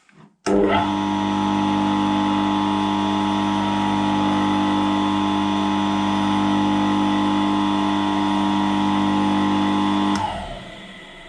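Homemade electric vibrating plate, built from an old electric motor with an eccentric shaft, starting abruptly about half a second in and running at a steady pitch. It is switched off near the end and winds down.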